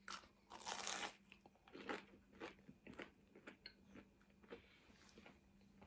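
Faint chewing and crunching of crispy food, a run of irregular crackly bites and mouth clicks.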